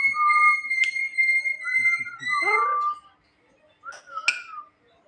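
Jalak kebo (Javan myna) whistling: one long steady whistle with wavering lower notes under it, then a falling call about two and a half seconds in, a short pause, and a sharp short note about four seconds in.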